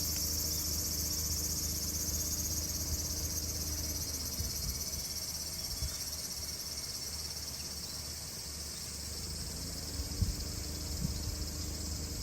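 Crickets chirring in a steady, high-pitched chorus, over a low steady hum, with a few short knocks near the end.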